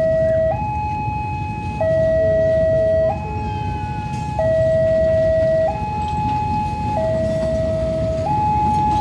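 Railway level-crossing warning alarm sounding a two-tone electronic hi-lo signal, each note held a little over a second, warning that a train is approaching. A low rumble of traffic runs beneath it.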